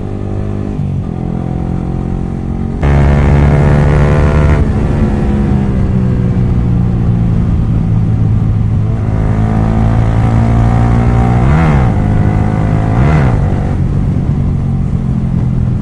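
Yamaha R15 V3's single-cylinder engine running loud through an exhaust with its dB killer removed while riding. About three seconds in the throttle opens and the revs climb, then hold steady, with two quick rev blips near the end.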